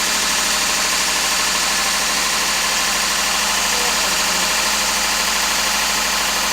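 Freshly rebuilt Honda D16Z6 1.6-litre four-cylinder engine running steadily on its first startup after the rebuild, left to run for a few minutes.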